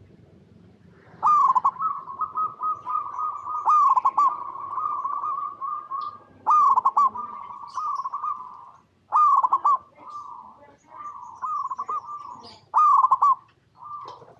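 Zebra dove (perkutut) singing its soft cooing song: about five phrases, each a strong opening coo that runs into a quick trill of repeated coos.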